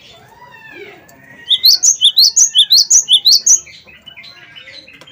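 Gelatik batu (cinereous tit) singing: soft gliding whistles, then a fast run of about ten loud, sharp rising notes over two seconds, followed by softer twittering.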